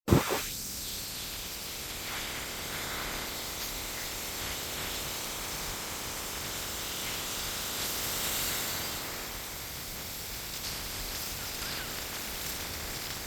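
Steady rushing hiss of ocean surf on the beach, swelling briefly about eight seconds in, with a sharp knock at the very start.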